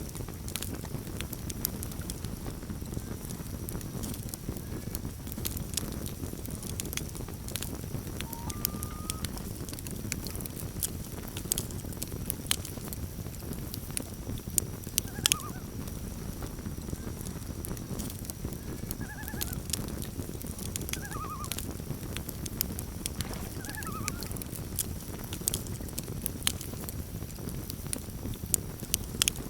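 Campfire crackling with sharp pops over a steady low rumble, and a few short calls of common loons, most of them in the second half.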